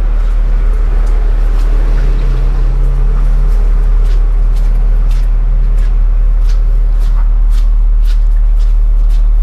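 A machine running steadily with a loud, even low hum, with a few faint clicks over it.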